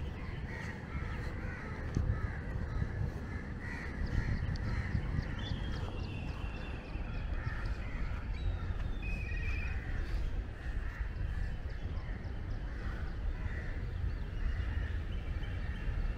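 Birds calling over and over, many short calls overlapping, with a low steady rumble underneath.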